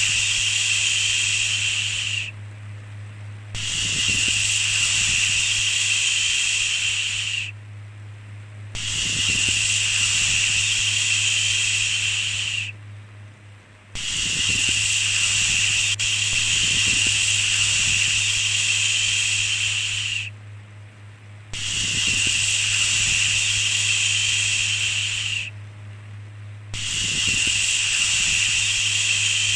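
Long shushing 'shhh' sounds, repeated about six times, each lasting four to six seconds with short pauses between, over a steady low hum.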